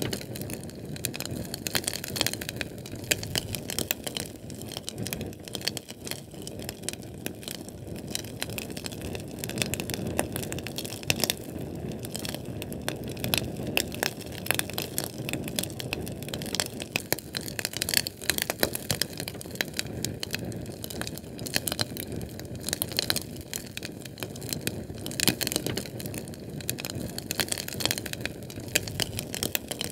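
Fire burning, with a constant low rush of flame and many sharp crackles and pops scattered irregularly throughout.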